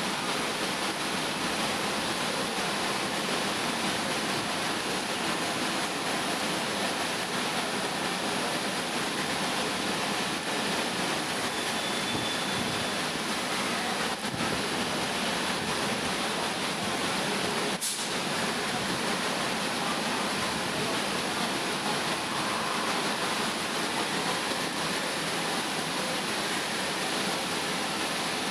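Steady, even hiss of a car wash's high-pressure jet working on a CNG auto-rickshaw, with one sharp click about eighteen seconds in.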